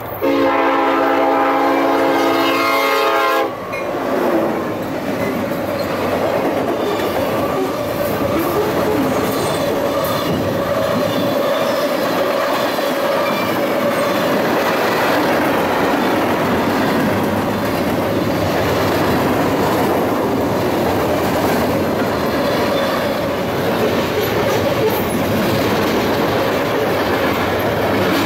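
Union Pacific SD70ACe locomotive's air horn sounding one loud, steady chord for about three seconds as the freight train approaches. Then the long train of freight cars rolls past, wheels clacking and rattling over the rails.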